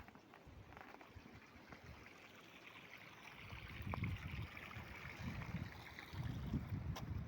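Outdoor ambience of running water, with wind buffeting the microphone in low rumbles that grow stronger in the second half.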